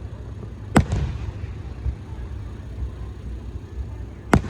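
Aerial firework shells bursting: two sharp bangs, the first about a second in with a quick second crack right behind it, the other near the end, over a steady low rumble.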